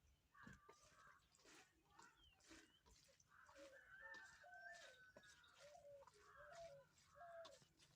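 Faint chickens clucking, with many short calls scattered throughout, and soft clicks in between.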